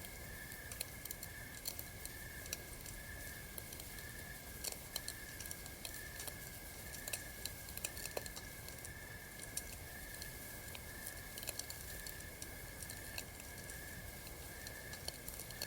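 Campfire crackling: irregular small pops and snaps over a low steady hiss, with a high chirp pulsing about twice a second in the background.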